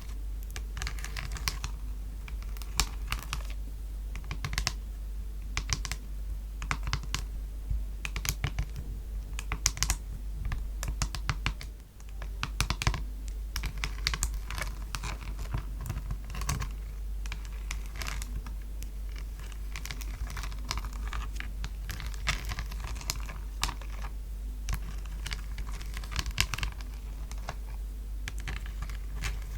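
Quick, dense tapping on a palette, a steady run of small sharp clicks like typing, with a short pause about twelve seconds in.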